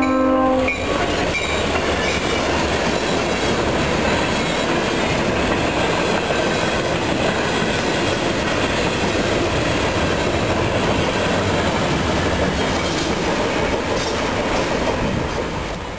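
A diesel locomotive's horn cuts off under a second in. Then a short freight train led by an EMD GP40-2 rolls past at close range: a steady heavy rumble with wheels clattering over the rail joints and some wheel squeal. It fades out near the end.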